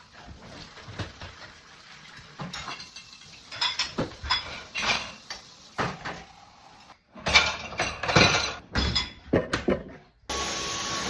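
Dishes and cutlery being handled: a string of irregular clinks and clatters, loudest in a busy run after about seven seconds. Near the end a steady machine whir cuts in abruptly.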